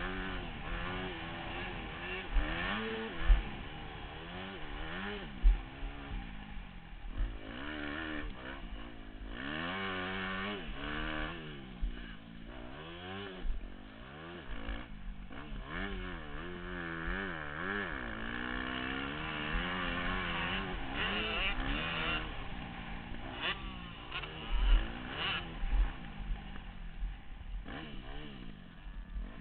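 Yamaha YZ motocross bike engine revving hard and backing off over and over while riding the track, its pitch rising and falling every second or two, with a few short low thumps along the way.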